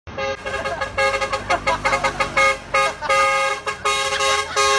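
Truck horns honking in a rapid run of short, overlapping blasts, with a steady low rumble underneath.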